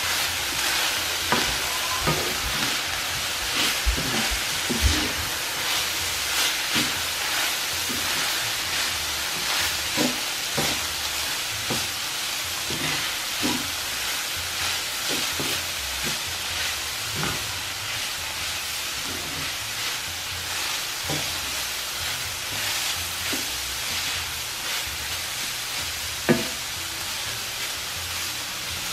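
Ground beef with bell peppers and onion sizzling in a skillet while a wooden spatula stirs it, scraping and clicking against the pan, with one sharper knock near the end.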